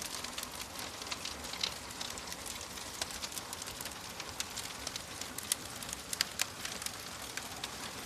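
Wood fire burning in a fireplace, crackling with irregular sharp pops over a steady hiss.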